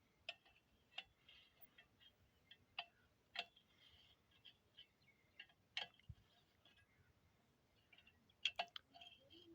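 Faint, scattered short clicks and chirps, about a dozen, spread irregularly over near silence.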